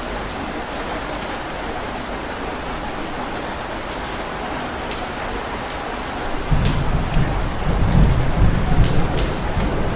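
Heavy rain falling steadily, with individual drops ticking. About six and a half seconds in, a low rumble of thunder rolls in and swells, loudest near the end.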